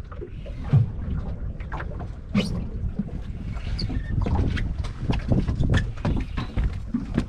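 Wind buffeting the microphone on a small fishing boat, with a low rumble, scattered knocks and a sharp thump about a second in.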